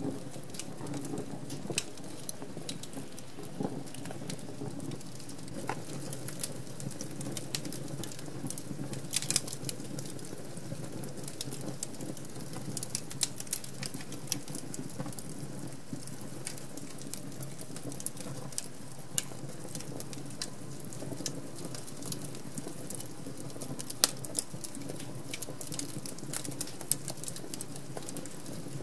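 Wood fire burning in a fireplace and crackling: a steady low rush of the flames with frequent sharp pops and snaps, a few of them much louder, scattered throughout.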